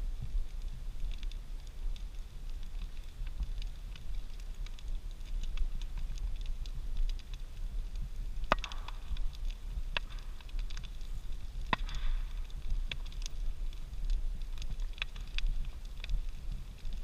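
Big wood bonfire burning, with a steady crackle and several sharp pops over a low rumble.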